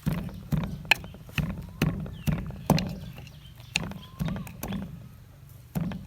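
Pestle pounding green papaya salad in a mortar: steady rhythmic thuds about twice a second, each with a sharp knock, pausing briefly near the end.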